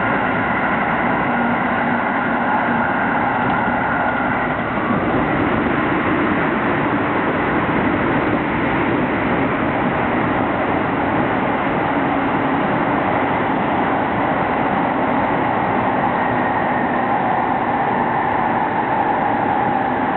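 Train running, heard from on board: a steady rumble and rail noise, with faint tones that drift slowly up and down in pitch.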